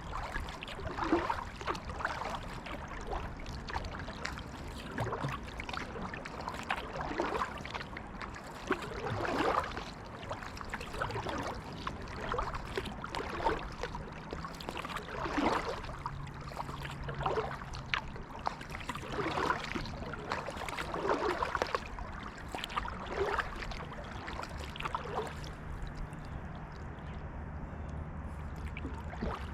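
Kayak paddle strokes in creek water: a splash and trickle of dripping water about every two seconds, over a steady gurgle of water along the hull.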